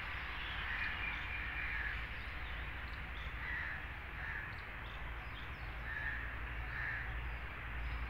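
Birds calling: a series of short, harsh calls every second or two, over a steady low rumble.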